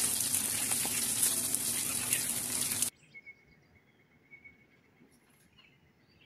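Whole fish frying in hot oil in a pan: a steady sizzle with small crackles, which cuts off abruptly about three seconds in, leaving near silence with a faint steady high tone.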